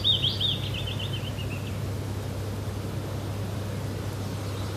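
A small bird twittering, a quick run of high chirps falling slightly in pitch, for the first second and a half, over a steady low background noise.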